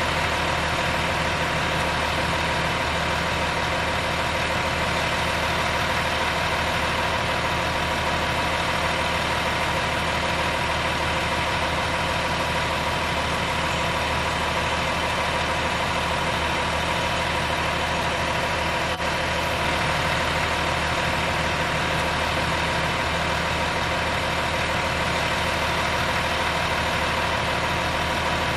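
Engine idling steadily and evenly, with no change in speed, and one faint click about two-thirds of the way through.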